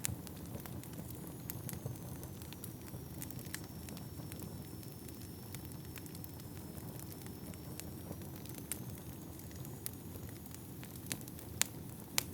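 Wood fire burning in a fireplace: a steady low rumble of flames with scattered sharp crackles, two louder pops near the end. A faint thin high whistle dips and rises through most of it.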